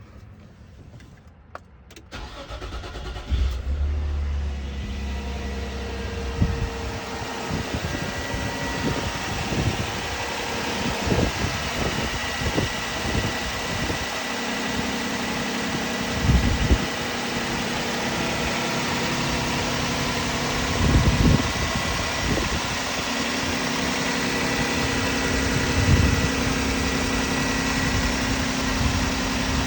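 Nissan Maxima engine cold-starting: about two seconds in it cranks and catches, then settles into a steady fast idle. A few short low bumps sound over the idle.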